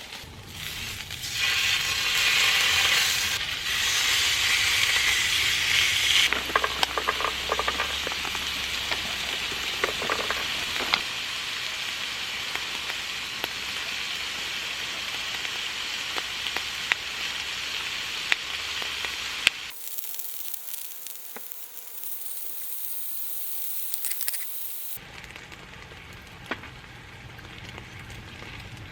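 Food sizzling and frying in a hot pan, a steady crackling hiss with scattered small clicks. It cuts off abruptly about 20 seconds in, and quieter sound follows.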